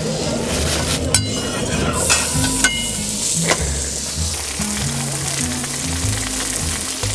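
Pork belly sizzling and frying on a hot grill pan, with a few sharp clinks of utensils in the first two seconds. Background music plays underneath.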